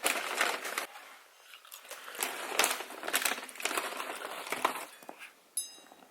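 A bag of chips crinkling and rustling, with irregular crisp crunches. A brief high squeak near the end.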